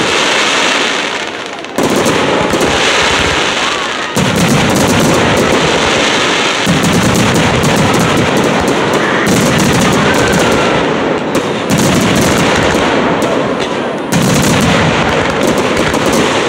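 Fireworks barrage: rapid, unbroken bangs and crackling from many shells and comets going up together, with a fresh volley coming in every two to three seconds.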